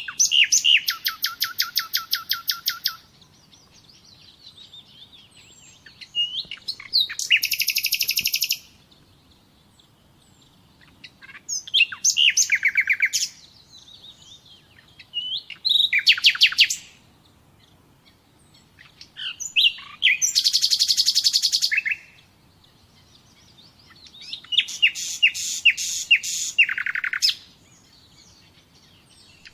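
A songbird singing: six phrases of rapid, high-pitched trills, each lasting about two to three seconds, with pauses of a few seconds between them. Most phrases open with a few short separate notes before the trill.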